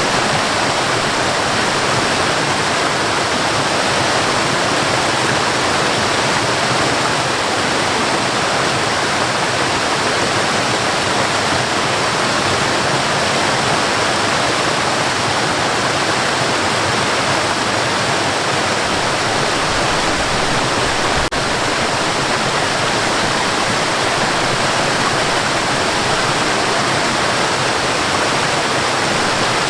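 Waterfall: water falling and splashing in a steady, dense rush, with one brief dip in the sound about two-thirds of the way through.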